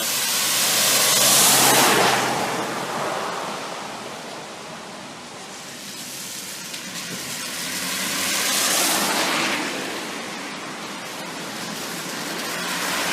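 Cars passing on a road: tyre hiss swells up and fades away about a second and a half in, again around nine seconds in, and starts rising again near the end.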